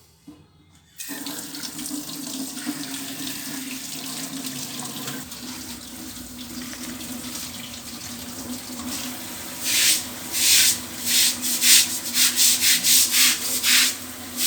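Water running from a tap, starting about a second in, with a steady low hum under the rush of water. Near the end, a run of short, loud hissing strokes comes about twice a second.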